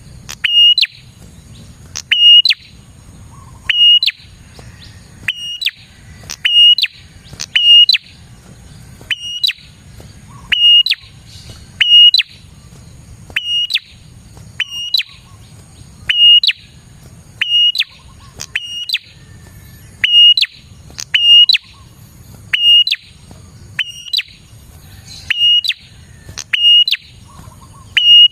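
A prinia (prenjak) calling loudly and over and over, in full voice: a short, sharp, high note with a quick upward flick, repeated steadily about every second and a half.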